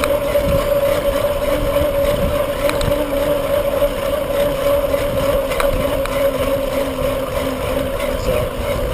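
Steady rush of wind and tyre noise while riding a bicycle, with a constant droning hum underneath and a few faint ticks.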